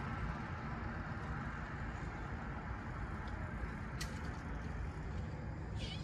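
Steady outdoor background rumble, with a couple of faint ticks in the second half and a short high chirp near the end.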